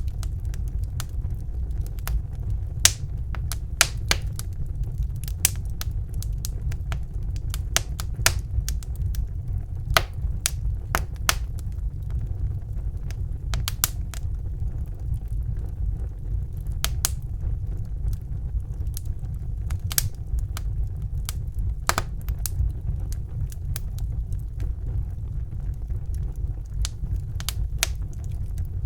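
Wood fire crackling in a fireplace: irregular sharp pops and snaps, several bunched together around a few seconds in and again around ten and fourteen seconds in, over a steady low rumble.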